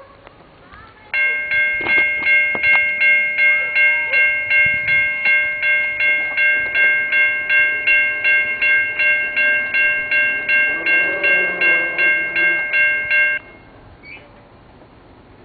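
Railroad grade-crossing warning bell ringing in an even, rapid pulse of about two and a half strikes a second, starting about a second in and stopping suddenly near the end: the crossing signal warning of an approaching train.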